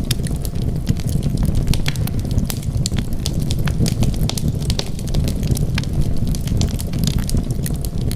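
Wood fire crackling, with frequent sharp pops and snaps over a steady low rumble of burning flames.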